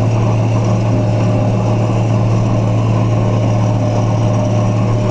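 Large farm tractor's engine running at a steady, unchanging speed, a loud low drone, while pulling a chisel plow.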